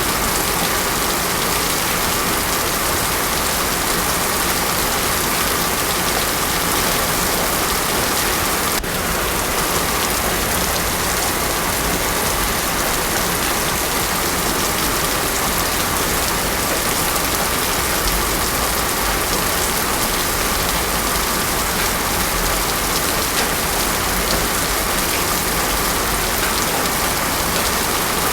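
Heavy rain falling steadily on a road surface, a dense, even hiss with no thunder.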